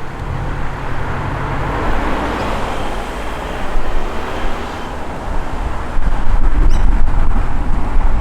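Car engines rumbling as cars drive slowly past, with the low rumble growing louder about six seconds in.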